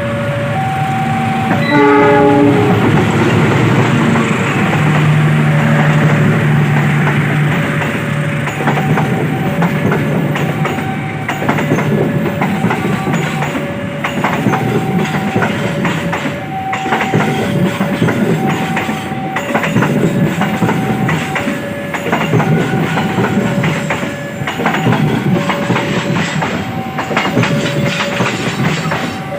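A train passing over a level crossing: a short blast of the train horn about two seconds in, the diesel locomotive's engine, then a long run of wheels clattering over the rails. The crossing's warning alarm rings on throughout, two tones alternating about once a second.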